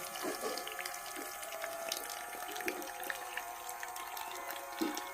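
Miniature water pump running with a steady motor hum while water gushes and splashes, with a few short gurgles, the loudest near the end.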